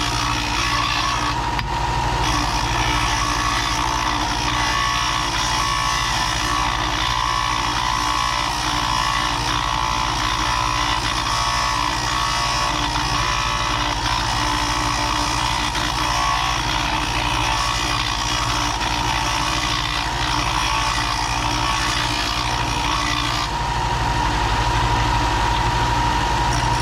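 A vehicle engine running steadily, a constant low drone with an abrupt shift in tone about three seconds before the end.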